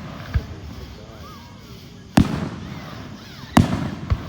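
Fireworks exploding: two loud bangs about a second and a half apart, with a quieter bang before and after them, each followed by a rolling echo.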